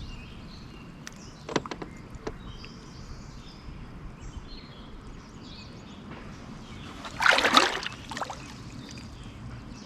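A loud splash of water beside a canoe about seven seconds in, with a few small knocks earlier and faint bird chirps in the background.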